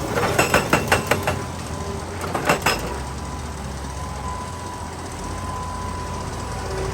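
Excavator engine running steadily, with a quick burst of rapid sharp metallic strikes in the first second or so and a second short cluster of strikes a moment later.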